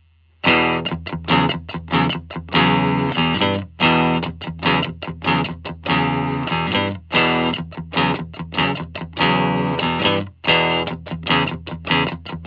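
Electric guitar, a G&L Legacy USA with Alnico V single-coil pickups, played through a Hiwatt Custom 20 2x10 tube combo with Fane speakers, overdriven. Rhythmic strummed chords with short choppy stabs between longer ringing ones, starting about half a second in.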